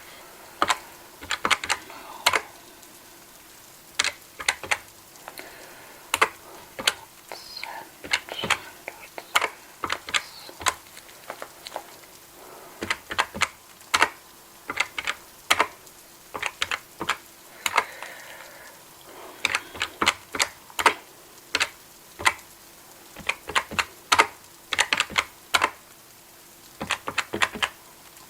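Cash register keys being pressed over and over, clicking in quick irregular runs of several presses with short pauses between them.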